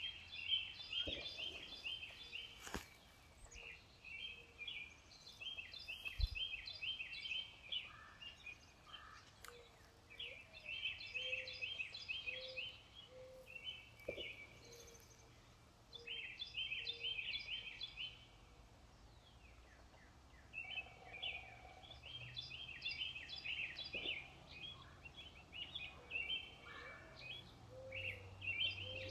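Songbirds singing: phrases of rapid high notes, each a second or two long, repeating every few seconds, with a lower call of short repeated notes underneath at times.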